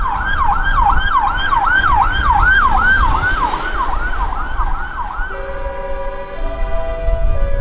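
Emergency vehicle siren on a rapid yelp, sweeping up and down about two and a half times a second over low traffic rumble. About five seconds in the siren cuts off and music with steady held notes takes over.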